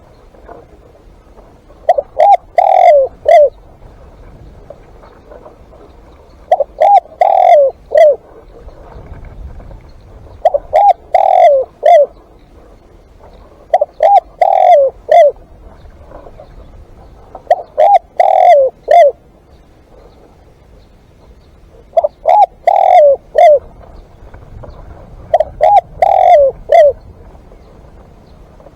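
Spotted dove cooing: a short phrase of several falling coos, repeated seven times at about four-second intervals.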